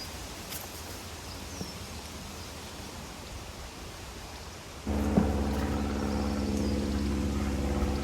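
Steady outdoor background hiss with a few faint high chirps. About five seconds in, a steady engine drone cuts in abruptly and runs on.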